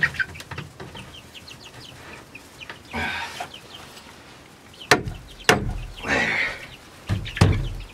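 Young chickens peeping and clucking in short high chirps, with a few sharp knocks and brief rustles about halfway through and near the end.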